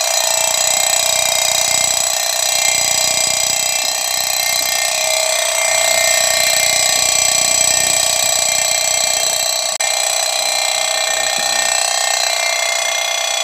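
Dense, continuous chorus of night insects trilling in a rice paddy: many overlapping steady high-pitched trills that hold without a break.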